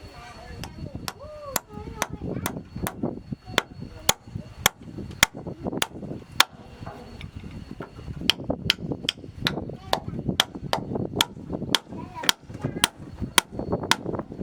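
Hammer blows on wooden floor planks during plank installation: a steady run of sharp strikes, about two a second.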